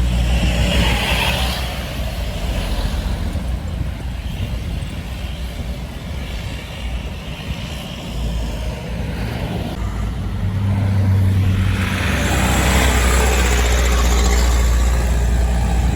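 Heavy truck's diesel engine labouring up a steep hill, with road and traffic noise; it dips in the middle and grows louder again about twelve seconds in.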